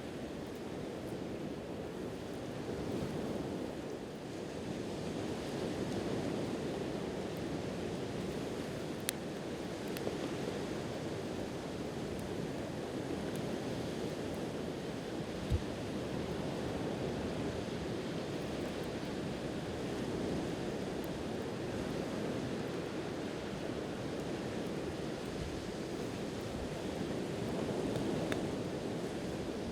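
Steady wash of ocean waves on the shore, with a few sharp crackles from a wood campfire and one low thump about halfway through.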